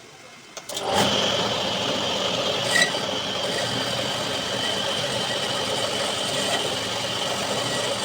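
An electric workshop power tool starts about a second in and runs steadily at a constant speed, with a steady high whine over a rough grinding noise.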